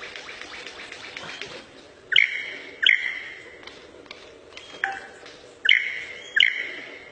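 A bird calling: rapid chirping for the first two seconds, then two pairs of loud, sharp whistled notes, the notes in each pair about 0.7 s apart and the pairs about three and a half seconds apart.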